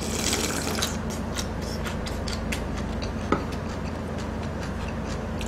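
Close-miked eating sounds: wet mouth clicks and chewing, scattered and irregular. There is a short hissing rush in the first second and one sharper click a little after three seconds.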